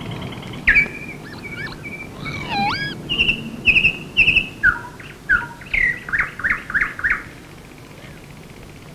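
A songbird singing a varied phrase of whistles, slurred notes and trills, ending in a run of short repeated notes that stops about seven seconds in, over a steady low hiss.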